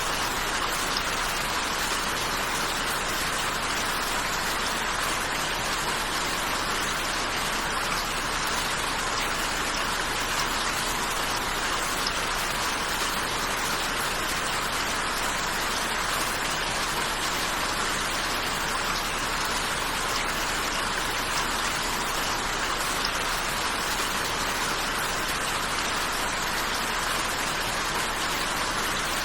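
Steady rain falling, a dense even patter of raindrops on a surface with no change in intensity.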